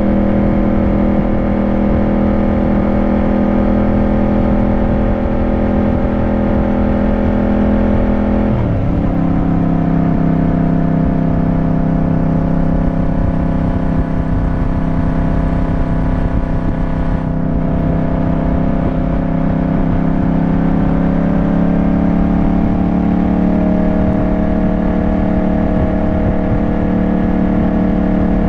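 Yamaha motorcycle engine running on the road at steady revs; about a third of the way in its pitch drops suddenly, as at an upshift, then climbs slowly again in the second half as the bike gathers speed.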